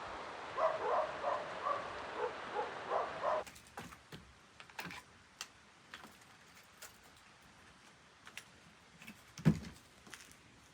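Steady rush of running water with short chirping calls over it, which cuts off after about three and a half seconds. Scattered light clicks and knocks follow, with one heavier thump near the end.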